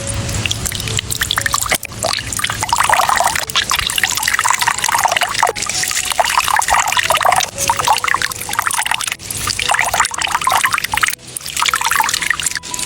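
Liquid pouring and trickling with a busy splashing crackle that rises and falls, dipping briefly about two seconds in and again near eleven seconds.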